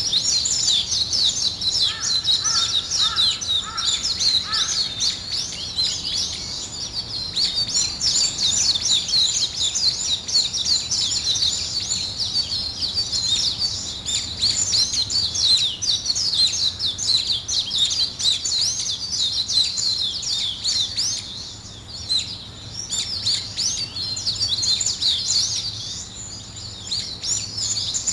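Many small birds chirping at once in a dense, continuous chorus of quick high notes. A short run of four or five lower, evenly spaced notes comes in about two seconds in, and the chorus thins briefly twice later on.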